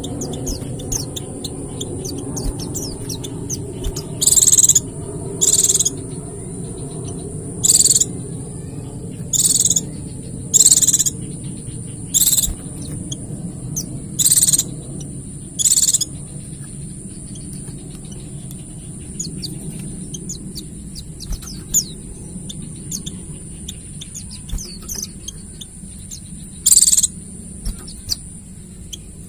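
White-eyes (pleci) twittering continuously in fast, high chirps. Loud bursts of song under a second long stand out eight times in the first sixteen seconds and once more near the end. A steady high-pitched hiss and a low rumble run underneath.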